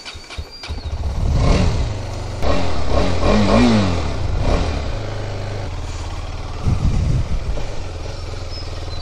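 KTM 250 Adventure's single-cylinder engine running as it warms up. It is revved a few times about two to four seconds in, settles to a steady idle, and is blipped once more near seven seconds.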